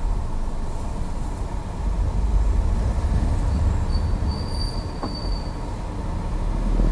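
Seat Ateca's steering giving a thin, high-pitched squeal for about two seconds around the middle, with a short click, over a steady low rumble. This is the fault noise the car makes when the steering is turned.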